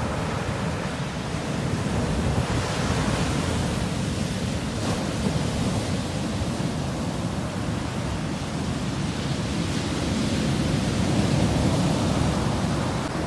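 Sea waves rolling in and washing on the shore, a steady rush that swells a little a few seconds in and again near the end.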